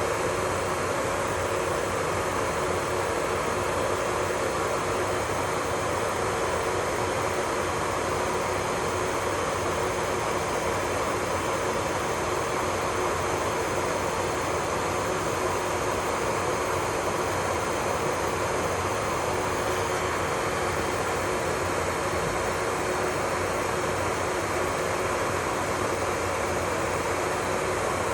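Small electric motor whirring steadily over an even hiss, with no change in pitch or level, typical of electric nail-salon equipment.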